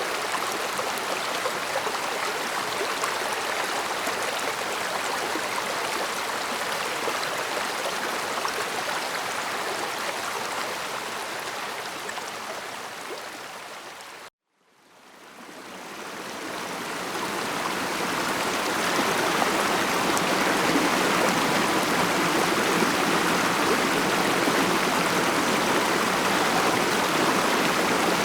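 Steady running water of a stream flowing over rocks. About halfway through, the sound fades down to a brief moment of silence, then fades back in and runs on a little louder.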